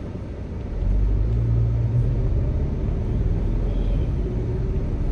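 Car engine and road rumble heard from inside the cabin, growing louder about a second in as the car pulls. The car is hesitating and won't get up to speed, the same shaking fault that has returned after an engine replacement.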